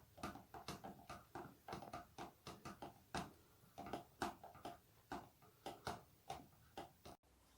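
Faint, irregular clicks or ticks, about two or three a second.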